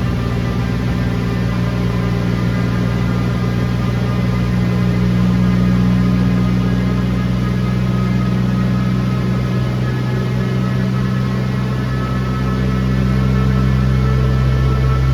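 Toyota Tazz's swapped-in 20-valve four-cylinder engine idling steadily.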